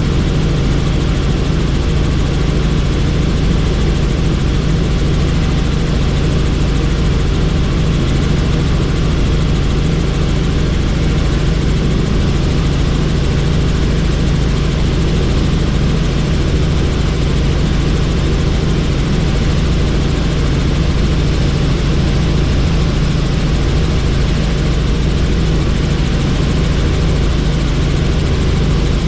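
Helicopter in flight: rotor and engine noise running loud and steady, with a strong low hum and no change in pitch or level.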